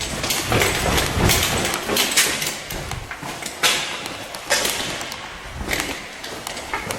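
Irregular scuffs, knocks and rustling of someone moving about on a hard floor, with a few sharper thumps and an empty-room echo.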